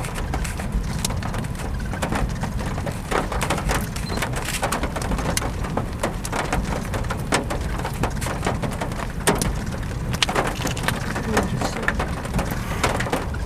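Wind-driven storm rain pattering, with many sharp drop impacts over a steady low rumble.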